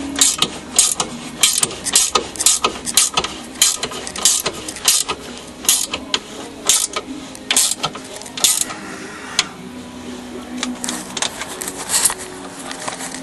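Socket ratchet wrench being worked back and forth, about two clicking strokes a second, to run a bolt home while the engine crossbar is fitted. The strokes slow and become sparse after about nine seconds.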